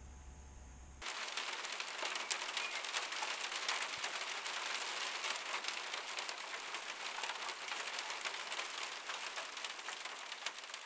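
Steady rain falling: a dense hiss of many small drop impacts, starting abruptly about a second in.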